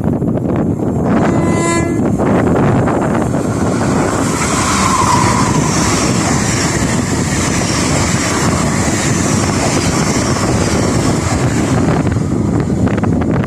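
A train gives a short horn blast, then passes close by with a loud, continuous rush of wheel and rail noise for about ten seconds, easing off near the end.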